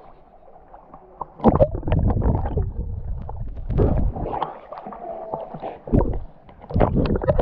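Muffled water sloshing and gurgling in uneven surges.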